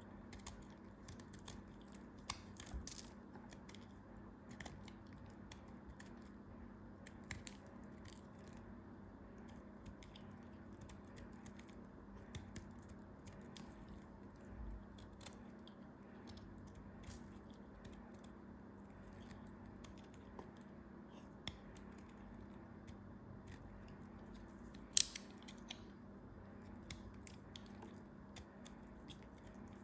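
Scattered crisp crackles and clicks of a dry, crumbly material being cut and broken apart by hand, over a steady low hum, with one louder snap about 25 seconds in.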